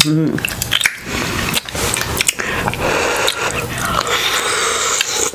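Close-miked mouth sounds of people eating seafood: wet chewing and biting with many small clicks.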